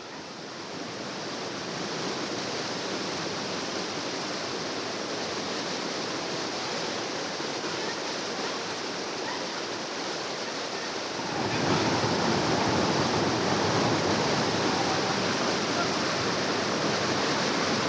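Steady rush of moving water, waves or surf, without any distinct tone; it grows louder about eleven seconds in.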